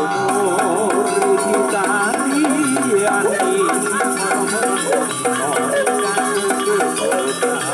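Javanese jaranan ensemble music: a wavering, bending melody line over chiming metallophone tones and a steady percussion beat.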